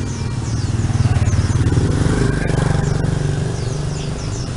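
A motorbike engine passing close, swelling to its loudest about a second in and fading away near the end, with birds chirping faintly.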